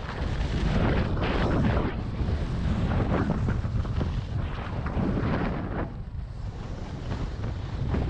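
Wind buffeting a GoPro's microphone during a ski run, with skis swishing and scraping over spring snow in swells about once a second as they turn.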